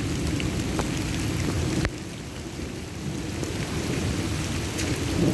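Heavy rain pouring steadily, with a low rumble under it and scattered single drops ticking close by.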